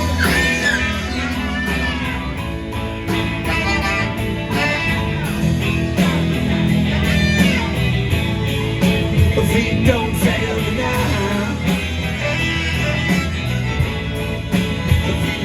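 Live rock band playing an instrumental passage: a lead line with bending notes over sustained bass notes and a steady drum beat.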